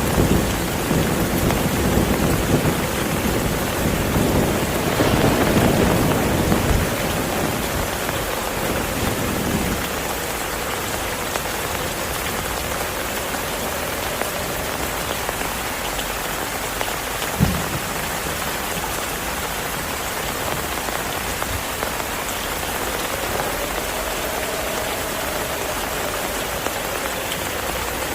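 Heavy rain falling steadily. A low rumble of thunder fades out over the first third, and there is a single dull thump a little past the middle.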